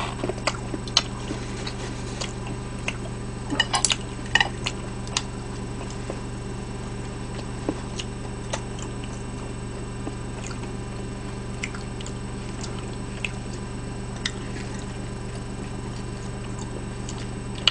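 A person chewing pizza close to the microphone: soft wet chewing and scattered small clicks, with a brief cluster of clicks about four seconds in, over a steady low hum.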